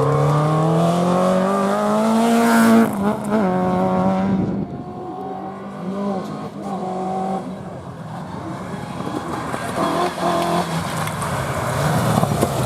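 Historic rally car accelerating hard on a stage, its engine note climbing for about three seconds before a lift or gear change. Then the engine drops away to a quieter, varying sound, and an engine rises again near the end.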